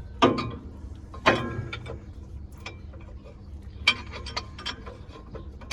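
Hand tools working on a large square baler's steel fittings: a few sharp metallic clinks that ring briefly, then a quick run of clicks about four seconds in, over a steady low hum.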